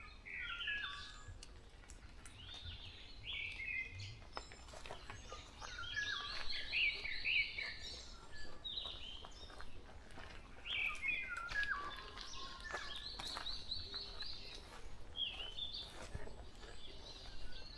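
Several birds singing at once in forest: overlapping whistled and chirping phrases, with a fast run of repeated high notes that comes twice.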